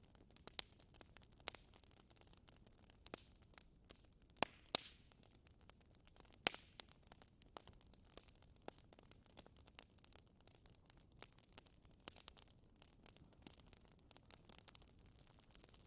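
Wood fire crackling: irregular sharp pops and snaps, a few louder ones about four to seven seconds in, over a faint steady hiss.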